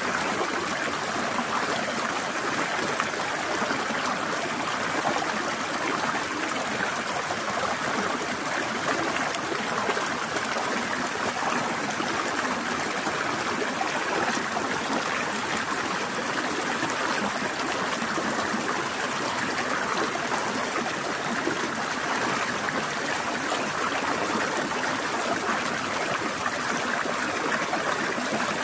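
Stream water flowing and trickling steadily, an even rushing with no breaks or changes.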